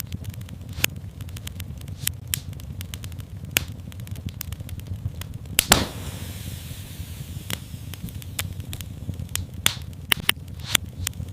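Wood fire crackling, with irregular sharp pops and snaps over a steady low rumble of the flames; one louder pop about halfway through and a quick cluster of pops near the end.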